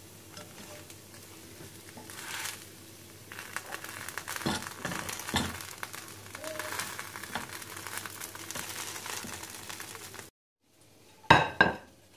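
Food frying in a pan with a few knocks of a utensil, over a steady low hum. After a short break, two loud clinks of dishes or cookware near the end.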